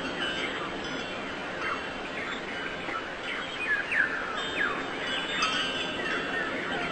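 Birds chirping: many short, quick downward chirps, irregularly spaced, over a steady background hiss.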